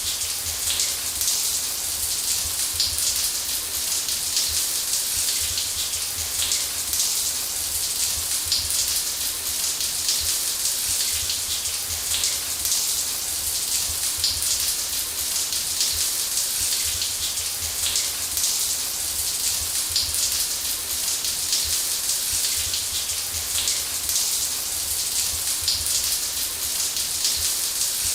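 Shower running steadily, water spraying and spattering in an even hiss with many fine droplet patters and a low drumming underneath.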